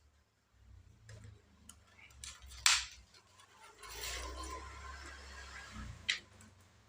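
Sharp clicks and knocks of small laptop parts being handled, the loudest about two and a half seconds in, with about two seconds of scraping or rubbing in the middle and one more click near the end.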